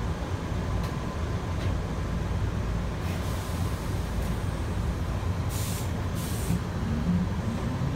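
Toyohashi Railway 1800-series electric train pulling out of the station: a steady low rumble of wheels and running gear, two short hisses of air about five and a half and six seconds in, and a faint rising motor whine near the end as it picks up speed.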